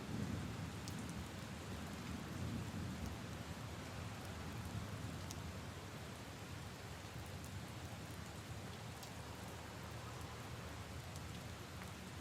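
Steady rain falling on leaves and puddles, with scattered single drops ticking. A low rumble of thunder fades away over the first few seconds.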